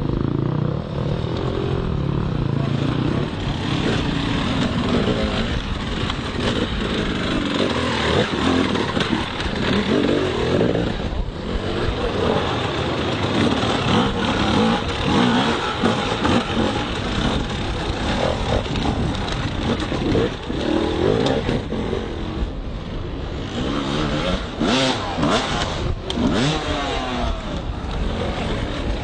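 Motocross dirt bike engines running and revving, their pitch rising and falling with the throttle.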